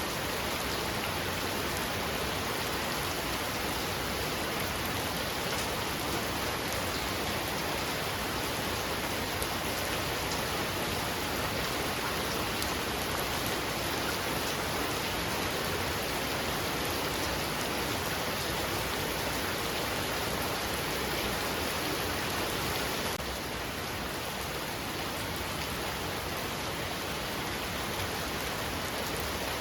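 Heavy rain falling steadily: a dense, even hiss of drops on surfaces. It drops a little in level about three-quarters of the way through.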